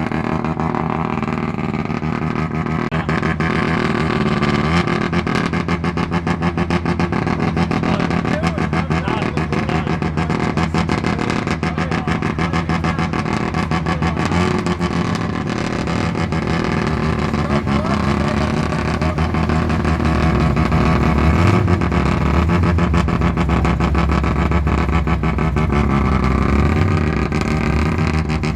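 Mazda RX-3's rotary engine running very, very loud as it rolls slowly past, a fast, rough exhaust note that grows louder and deeper in the second half.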